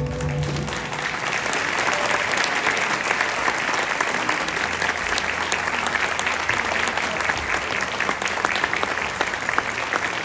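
Audience clapping steadily, dense applause with many individual claps, as the last held notes of the music die away at the very start.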